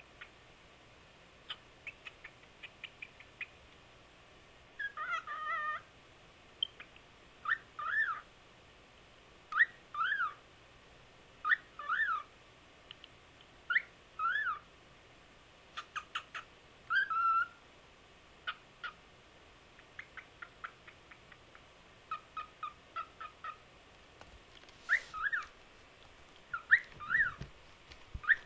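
Cockatiel whistling: a run of repeated rising-then-falling whistled notes about two seconds apart, mixed with short chirps and clicks.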